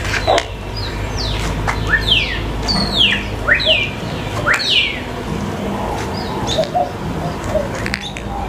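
Birds calling: a quick series of short down-slurred whistles, about one or two a second, mixed with a few short rising notes, thinning out after about five seconds. Underneath there is a low steady rumble and a few clicks.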